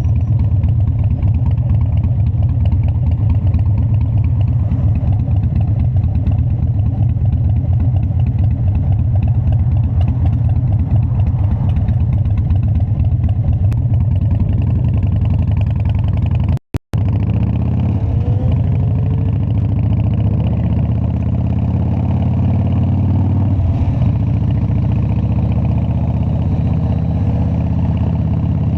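Harley-Davidson Dyna's V-twin engine running steadily, its sound strongest in the low end. The sound cuts out for a split second about two-thirds of the way in, then the engine carries on with some faint rising and falling tones.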